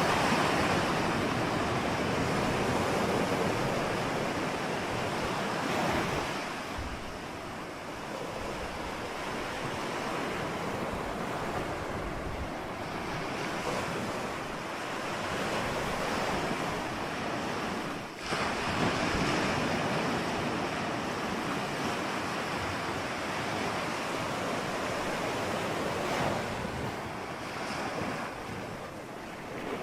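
Ocean surf: waves breaking and washing in as a continuous rushing noise that swells and eases every several seconds, with a short lull about two-thirds of the way through before the next wave surges in.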